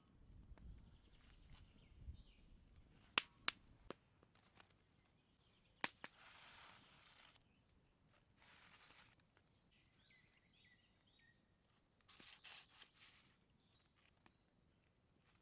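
Quiet handling sounds of food preparation: a few sharp clicks and knocks, then three short rustling swishes, with faint bird chirps in the background.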